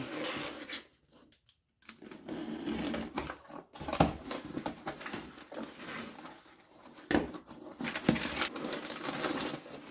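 A cardboard parcel being opened by hand: irregular rustling and crinkling of the box and its packing, with scattered sharp clicks and knocks and a brief silent gap about a second in.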